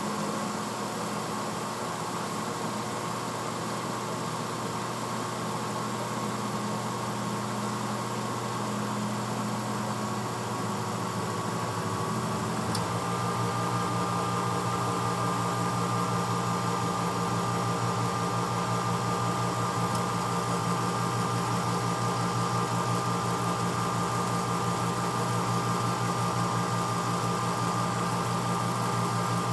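1986 Hotpoint Potwasher dishwasher running with a steady motor hum. About 13 seconds in, the hum changes pitch and becomes slightly louder, then holds steady.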